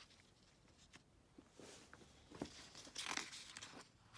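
Paper rustling as a book's page is handled and turned, faint at first with the loudest rustle about three seconds in.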